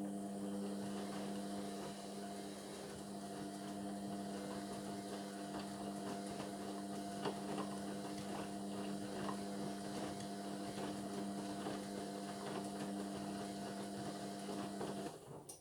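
Indesit washing machine humming steadily, with a hiss and faint crackle of water through it, then cutting off suddenly near the end.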